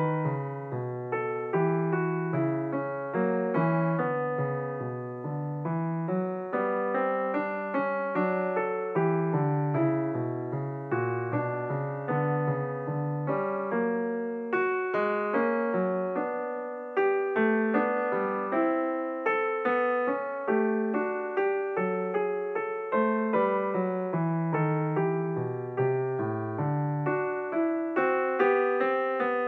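Background piano music: a flowing run of notes that keeps going without a break.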